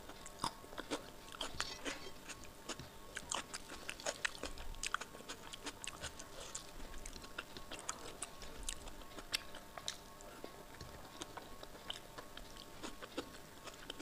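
Close-miked chewing of soft rice soaked in kadhi (yogurt curry) eaten by hand. It comes with many irregular wet mouth clicks and smacks.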